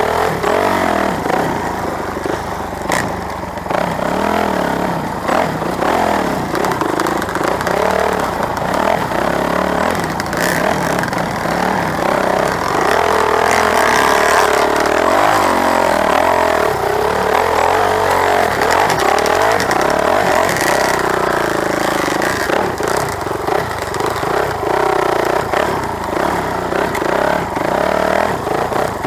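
Motorcycle engine running hard for the whole stretch, its revs repeatedly rising and falling, with some clatter.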